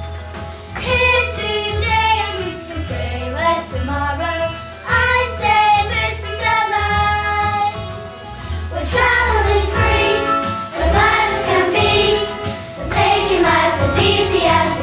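A group of children singing a song together over a backing accompaniment with a steady bass line.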